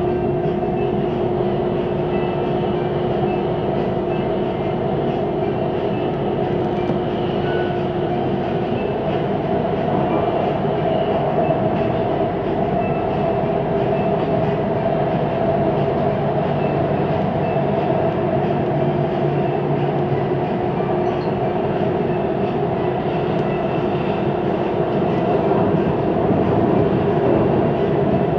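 Siemens Inspiro metro car running between stations, heard from inside the carriage: a steady rolling noise from the wheels on the rails with a humming tone over it, one tone dropping out about a third of the way through. This is the weird rolling noise of this carriage.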